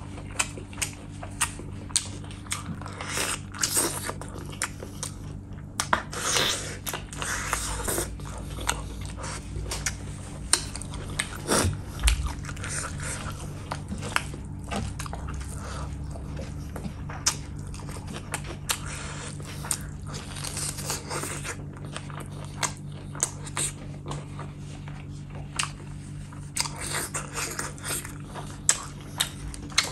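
Close-miked chewing and mouth sounds of a mouthful of mutton curry and rice, with many sharp wet clicks and smacks, over a faint steady low hum.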